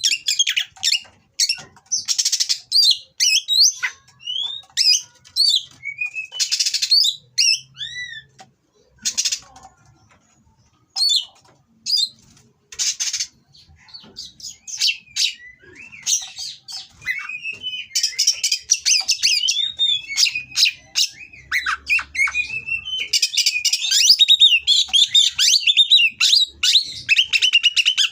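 Oriental magpie-robin (kacer) singing an excited breeding-condition song: harsh rasping notes mixed with whistled, gliding phrases. A brief lull comes about a third of the way in, then the song turns fast and dense near the end.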